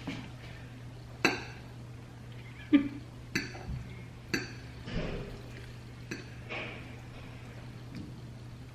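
A metal utensil knocking and clinking against a cooking pan as ground beef is stirred: about seven separate clinks at uneven intervals, each ringing briefly.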